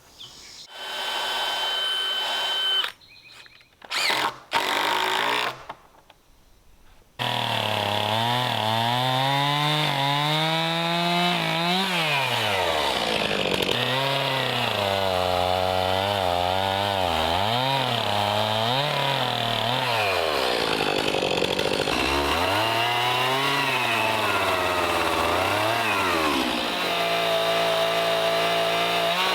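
Stihl MS 291 chainsaw revving up and down again and again while cutting cedar logs, its pitch sinking toward idle several times between bursts of cutting. The first few seconds are short, choppy snatches of sound with quiet gaps before the saw runs steadily.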